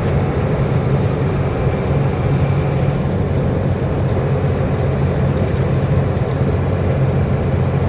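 Diesel engine of a 10-ton pickup truck running steadily while driving, heard from inside the cab, with a constant low engine drone and tyre and road noise.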